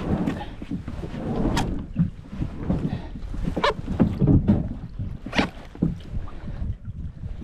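Kayak paddle strokes dipping into calm water, a splash about every two seconds, over wind rumbling on the microphone.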